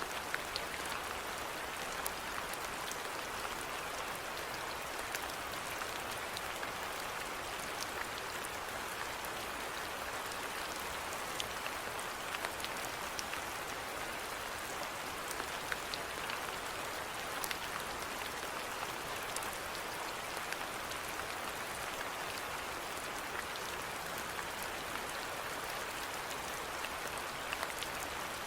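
Steady rainfall, an even hiss with individual drops ticking sharply here and there.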